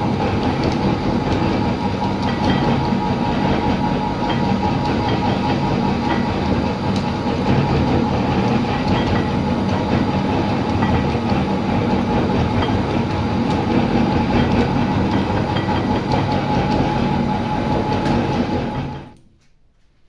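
Electric meat grinder running steadily under load, grinding ice cream, with a constant motor hum; it is switched off about 19 seconds in and cuts out quickly.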